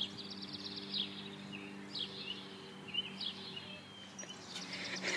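Faint birds chirping, a short falling chirp about once a second, over a low steady hum.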